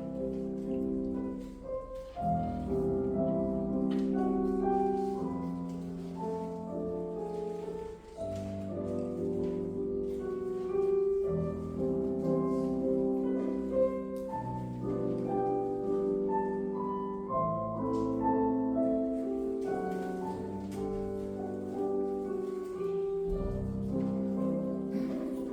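Classical piano music for a ballet class exercise: held notes and chords that change every second or two, at a steady level.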